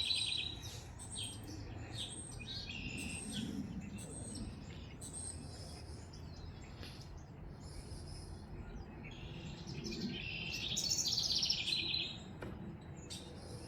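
Backyard songbirds chirping, with a long, rapid, trilled song about ten seconds in and short high calls scattered between. A steady low wind rumble runs underneath.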